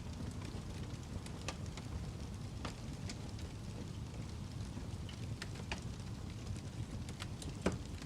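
Wood fire crackling in a fireplace: a steady low rush with scattered sharp crackles and pops, the loudest pop near the end.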